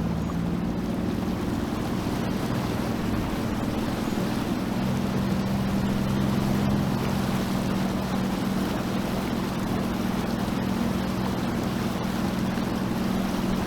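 Sea-Doo Fish Pro jet ski engine running steadily at cruising speed, with a constant rush of water and wind noise. The engine note shifts slightly about four and a half seconds in.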